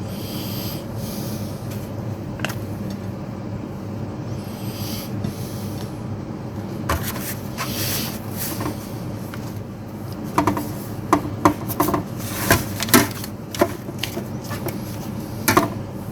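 Kitchen handling sounds as fajita filling is spooned into tortilla wrappers: scraping and rubbing of utensils and food, with scattered light knocks that come more often in the second half, over a steady background hum.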